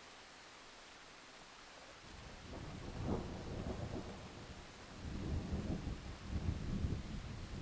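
Soft steady hiss, then about two seconds in a low rumble of thunder rolls in and builds in waves with louder peaks, still rumbling at the end, over rain.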